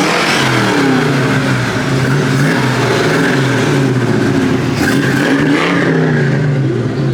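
Loud car engine revving, its pitch climbing and dropping several times.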